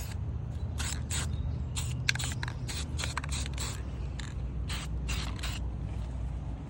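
Aerosol spray-paint can hissing in many short, irregular bursts as a second coat of satin finish goes onto dashboard panels, over a steady low rumble.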